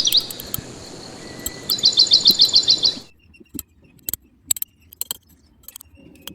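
A bird sings a quick run of about eight repeated high chirps over a steady background hiss. Both stop abruptly about three seconds in, leaving only scattered faint clicks.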